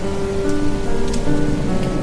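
Steady heavy typhoon rain, with a few sharp drop hits, under slow background music of held notes that change every few tenths of a second.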